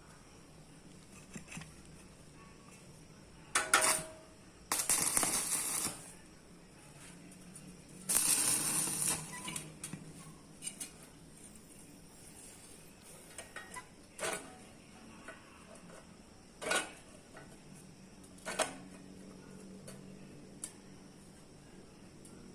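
Steel plate being handled and worked: scattered sharp metal clanks and knocks, some with a short ring, plus two bursts of scraping noise lasting about a second each.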